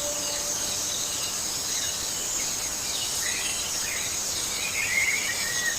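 Steady chorus of insects buzzing, with a few bird chirps from about halfway through.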